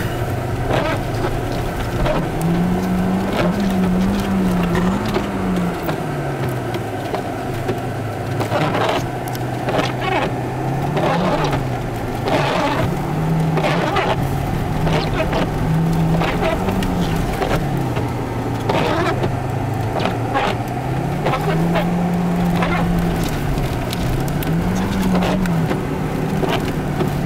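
Audi car engine revving up and dropping back again and again, about six swells, as the car is slid around on snow.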